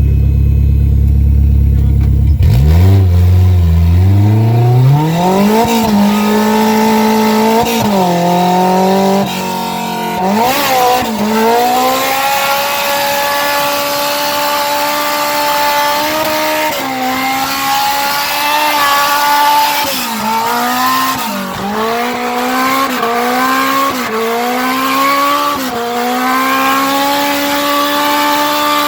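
A mini-truck's swapped-in Honda S2000 four-cylinder engine driven hard in a drift run. It runs low and steady at first, then revs up sharply about two and a half seconds in and stays at high revs, its pitch dipping and climbing again and again. Tyres squeal over it through the later part.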